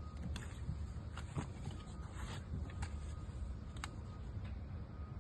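Scattered light clicks and taps of plastic cordless-vacuum parts and accessories being handled, over a steady low rumble.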